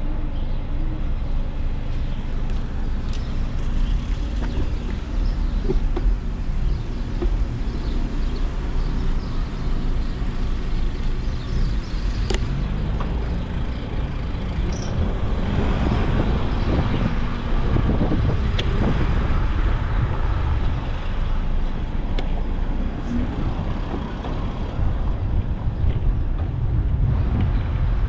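Steady low rumble of wind and road noise while cycling along city streets, with car traffic passing; the traffic swells in the middle.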